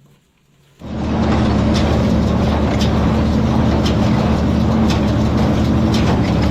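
Tractor running with a hay baler, starting suddenly about a second in and then steady, with a sharp click about once a second.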